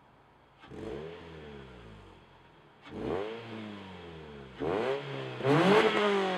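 2009 Scion xB's 2.4-litre four-cylinder engine, fitted with an aftermarket intake and header exhaust, is blipped four times from idle. Each rev jumps up quickly and falls back. The last two are the loudest and come close together near the end.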